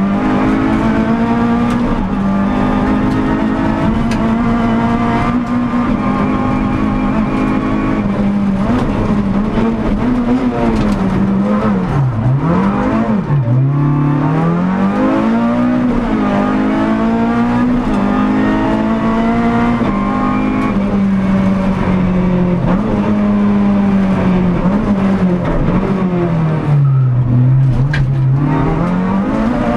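Renault Clio Sport rally car's engine heard from inside the cabin, held at high revs flat out on a stage. The revs drop and climb back through the gears for corners about twelve seconds in and again near the end.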